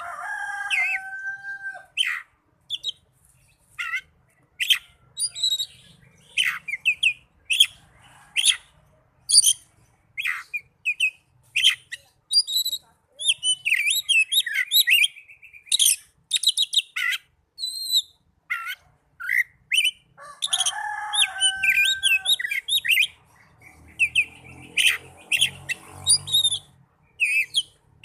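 Oriental magpie-robin song: a dense, fast run of sharp, varied whistles and chirps, broken by a lower, held two-note call at the start and again about twenty seconds in.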